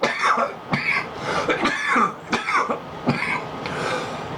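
A man coughing repeatedly in a run of short, harsh coughs after inhaling a hit of cannabis.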